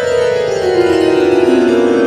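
A musical instrument playing, its main tone sliding steadily down in pitch.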